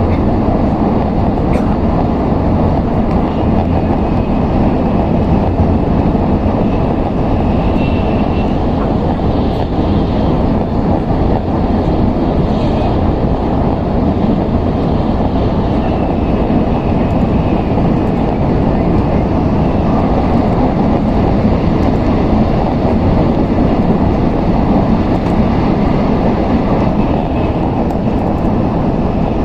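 Steady running noise of an N700S Shinkansen at speed, heard inside the car: an even rumble of wheels and air, with a faint high whine that comes and goes.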